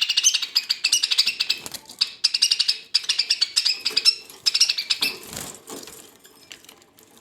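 Budgerigars squabbling: rapid, harsh chattering calls repeated many times a second, dying away about six seconds in.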